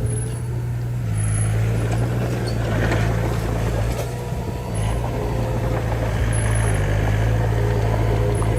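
Diesel engine of heavy earthmoving machinery running under load, its steady low note shifting slightly about a second in and again near five seconds, with a rough mechanical clatter over it.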